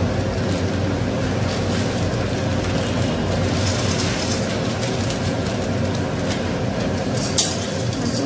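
Dry Maggi instant noodles frying in hot oil in a steel kadai: a steady sizzling hiss over a low hum, with a clink of the metal spatula against the pan near the end.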